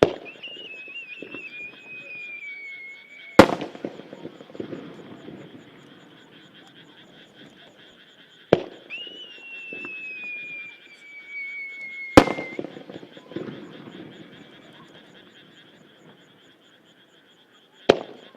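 Aerial firework shells: twice a launch bang is followed by a whistle that falls slowly in pitch for about three seconds as the shell climbs, ending in a loud burst with crackling after. A third launch bang comes near the end. A steady chorus of croaking frogs runs underneath.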